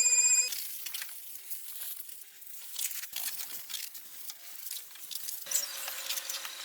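A high-pitched power tool's whine cuts off about half a second in. Irregular scraping and crackling follow, and a different rasping texture starts about five and a half seconds in.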